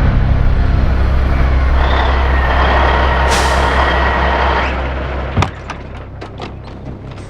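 A truck's engine rumbling loudly with a hissing noise over it, fading out about five seconds in. Then a run of sharp knocks follows.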